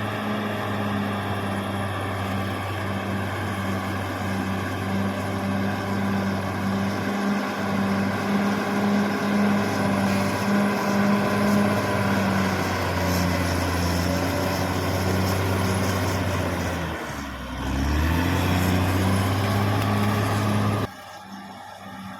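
Caterpillar D6R XL bulldozer's diesel engine running steadily. About seventeen seconds in, the engine note briefly dips and then picks back up. Near the end the sound drops suddenly to a quieter engine.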